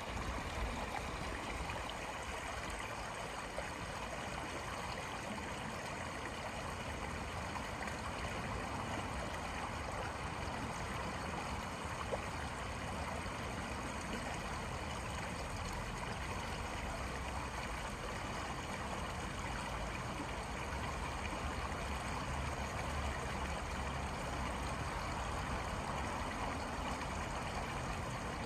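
Running water from a stream, a steady even rush with no pauses, over a low rumble.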